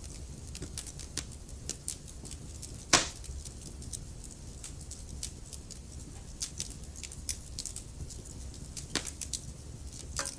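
Wood fire burning in a fireplace, logs crackling with scattered sharp pops over a low steady rumble of the flames. One pop about three seconds in is much louder than the rest.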